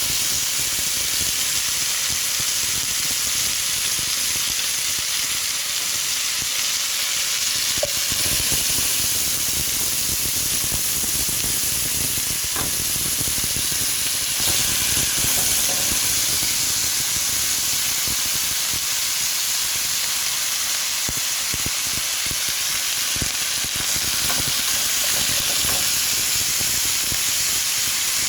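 Chicken wings frying in hot vegetable oil in a pot: a steady sizzle, with a few faint ticks.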